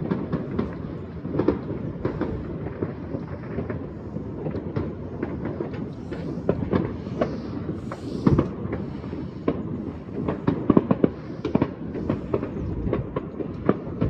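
Many distant fireworks and firecrackers going off at once across a city: countless overlapping bangs and crackles over a steady rumble, with no let-up.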